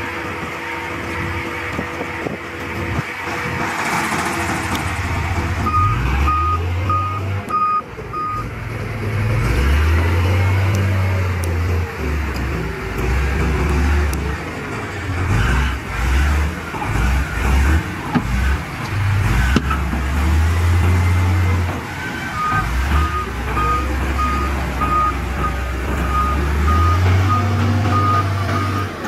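Heavy diesel engines of earthmoving machinery running and throttling up and down, with a reversing alarm beeping in two spells: about five beeps some six seconds in, and a longer run from about 22 seconds in.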